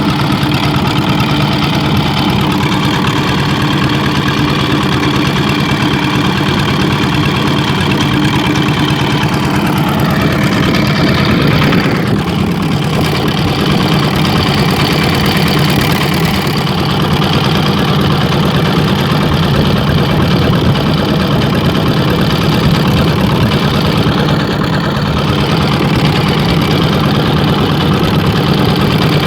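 Ship's engine running steadily, a loud constant low drone heard on board, with a brief downward sweep in pitch about eleven seconds in.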